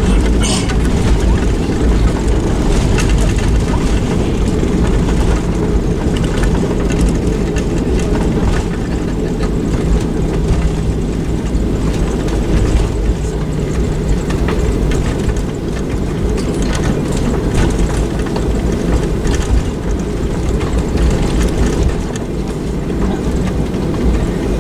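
Boeing 737-900ER cabin noise close to landing: a loud, steady low rumble from the engines and airflow, heard from inside the cabin.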